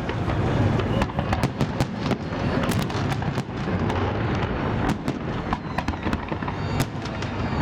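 Fireworks salute: many rapid booms and cracks of shells bursting, overlapping into a continuous rumble.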